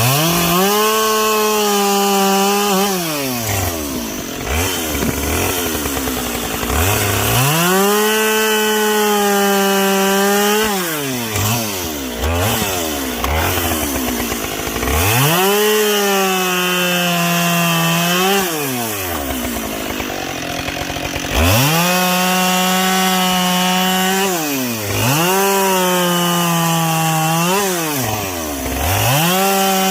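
Two-stroke chainsaw bucking logs: it is revved to full throttle for each cut, the pitch sagging slightly as the chain bites into the wood, then drops back to idle between cuts, about five cuts in a row.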